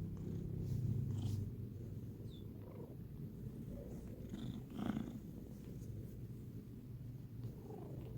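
A pet cat purring close to the microphone, a steady low rumble that is loudest in the first second or so, with a short louder sound about five seconds in.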